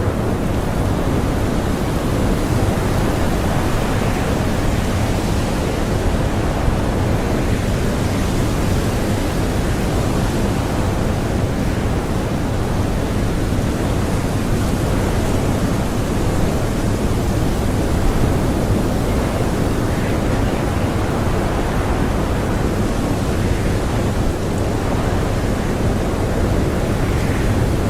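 Strong blizzard wind blowing in a steady, dense rush that holds at an even level throughout, without gusts or breaks.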